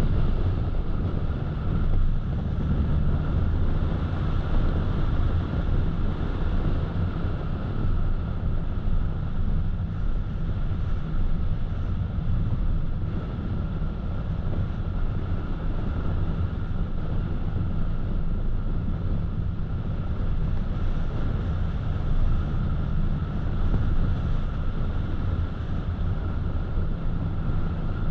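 A car driving at steady speed: a constant low rumble of tyres on the road and engine drone, with a hiss of wind.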